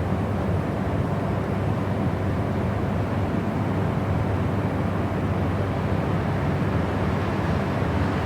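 Steady, unchanging noise played as a white-noise track, weighted toward the low end: a deep, even hiss with little treble.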